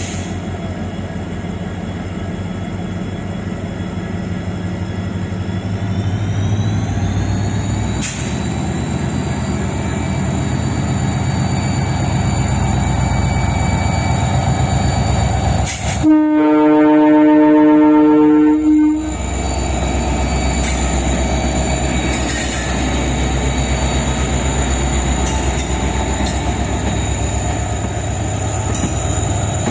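WDP4D diesel locomotive running as it pulls the train out, its engine note rising about a quarter of the way in as it picks up power. A little past halfway its horn sounds one long blast of about three seconds, and then the engine runs on louder.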